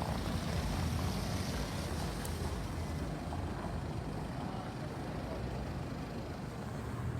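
Street traffic: motor vehicle engines giving a steady low rumble.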